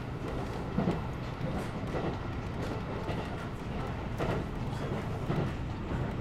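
JR 211 series electric train running at speed, heard from inside the passenger car: a steady rumble of wheels on rail with a few irregular sharper knocks.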